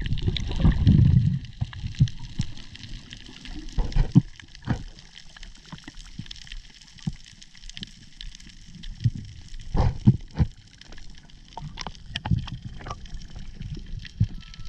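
Water sloshing and gurgling around the microphone, with a low rumble in the first second or so and scattered knocks and clicks.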